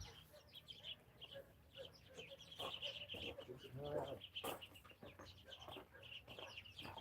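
Faint chirping of small birds: rapid runs of high, short chirps going on throughout, with a brief lower sound about four seconds in.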